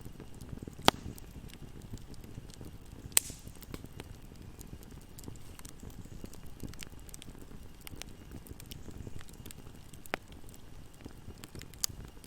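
Fire burning in a fireplace: a steady low rumble of flames with scattered small crackles and a few sharp pops, the loudest about a second in and about three seconds in.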